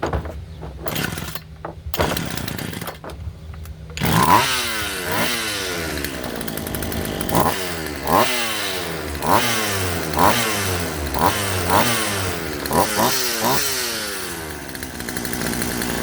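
Craftsman two-stroke chainsaw engine: a few short sputtering bursts, then it catches and runs about four seconds in, revved up and down over and over with the throttle. It is being run to check whether the bar's chain oiler is oiling after the fuel-line repair.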